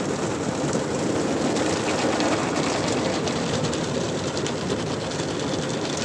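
Steady rushing noise of a Sonny's soft-touch tunnel car wash heard from inside the car, with spray and wash machinery running at the triple-foam stage.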